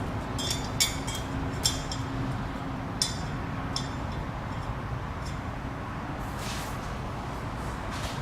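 Metal clinking against metal about five times in the first four seconds, each with a short ring, over a steady low hum; a brief swishing noise follows near the end.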